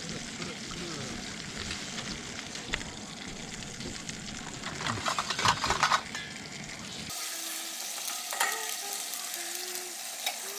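Food sizzling in a hot pan, with sharp clicks of utensils about five to six seconds in. The sizzling drops away abruptly about seven seconds in, leaving a fainter hiss.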